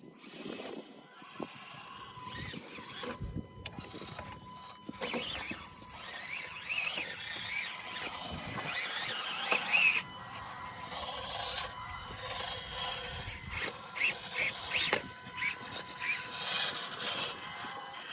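Small electric motors and gearboxes of 1/24-scale Axial SCX24 RC rock crawlers whining as they climb, the pitch wavering with the throttle, with tyres and chassis scraping on rock. Near the end there are several sharp knocks and clicks of plastic and rock.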